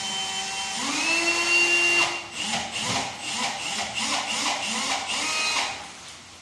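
Electric drill running: its whine rises as the motor spins up, twice, then it runs in short trigger pulses about twice a second before stopping shortly before the end.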